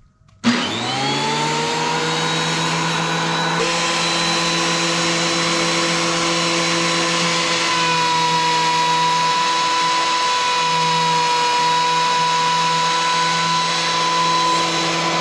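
Electric DeWalt planer switched on about half a second in, spinning up quickly to speed and then running steadily with a high whine.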